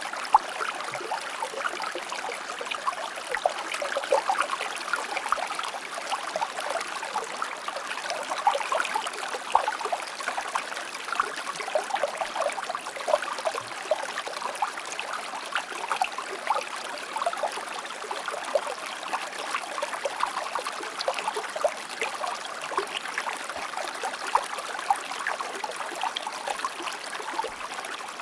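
A small river or stream flowing over rocks: a steady babble and trickle full of quick little splashes, with no change throughout.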